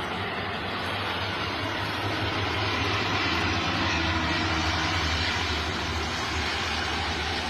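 Canadair water-bombing plane's engines running, a steady low drone under a broad rushing noise that swells slightly midway, as the plane takes on water from a reservoir.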